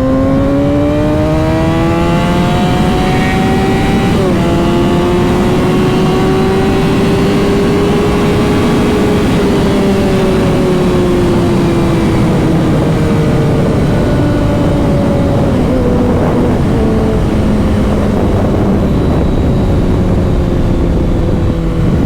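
Motorcycle engine accelerating hard, its pitch climbing, with a quick gear change about four seconds in. It keeps pulling until about nine seconds in, then eases off and settles to a steady cruise, with wind rushing over the microphone throughout.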